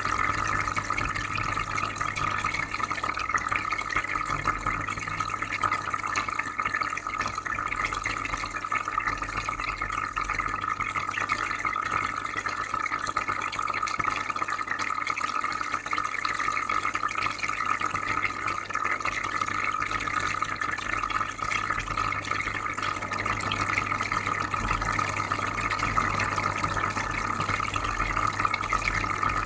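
Shrimp aquarium filter running: steady soft bubbling water over a constant low hum.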